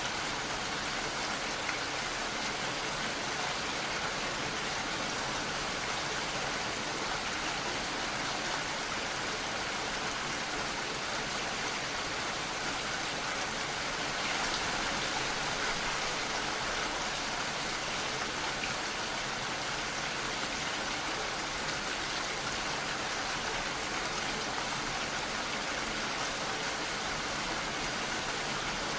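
Steady rain, a dense even hiss of falling drops with no letup.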